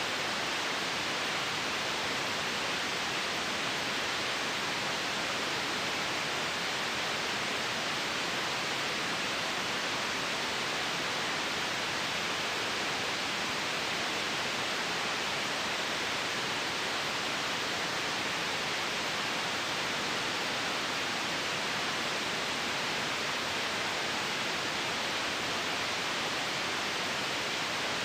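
White noise: a steady, even hiss that does not change, weighted toward the higher pitches.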